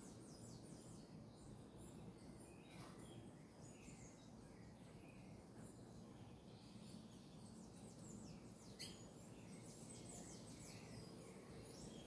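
Faint birdsong over low outdoor background noise: many short, high chirps and downward-sliding notes, with one sharp click about nine seconds in.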